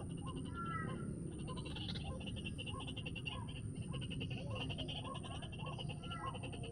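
White-breasted waterhens calling: short croaking notes repeated about two a second, with a few higher rising notes. A steady pulsing buzz runs underneath.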